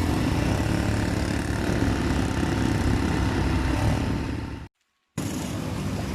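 A vehicle's engine running steadily, with a rumble of road or motor noise. About three-quarters of the way through, the sound cuts out completely for half a second, then carries on.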